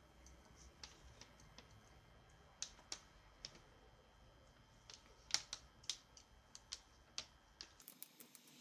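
Faint, irregular light clicks and taps, a dozen or so scattered through, like small hard parts being handled.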